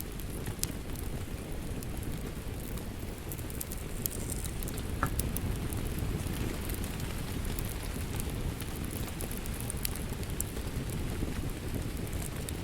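Wood fire crackling in a fireplace: a steady low rush of flames with scattered sharp pops and snaps throughout, and a brief thin hiss about five seconds in.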